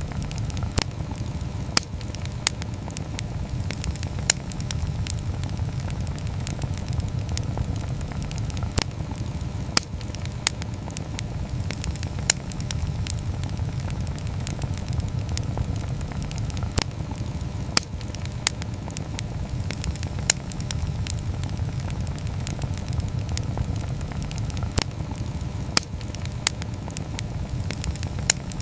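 Wood campfire burning. A steady low rush of flame runs throughout, and sharp, irregular crackles and pops of the burning wood come every second or two.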